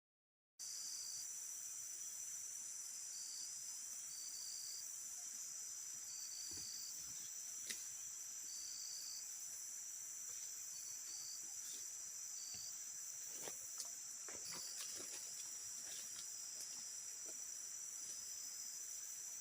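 Steady high-pitched forest insect chorus, with one strand pulsing on and off beneath the main drone. A few faint clicks and knocks come through in the second half.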